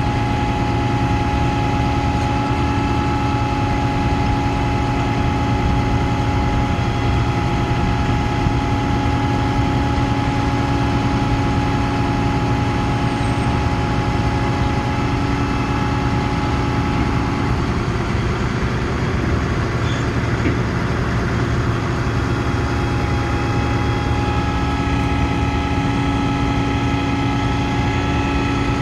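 Ford F-750 bucket truck's engine running steadily, with a steady whine on top that fades a little past halfway and comes back near the end.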